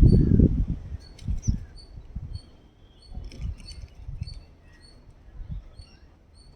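Small bird chirping: short, high chirps repeated every second or so, with a few brief rising notes. A loud low rumbling noise covers the first second.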